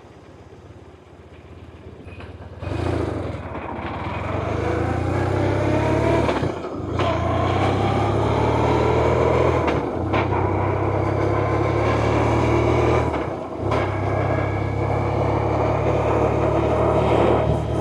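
BMW R1100RT's air-cooled boxer twin engine while riding. It runs low at first, then the throttle opens about two and a half seconds in and it pulls up through the gears, the revs rising between three brief dips at the gear changes.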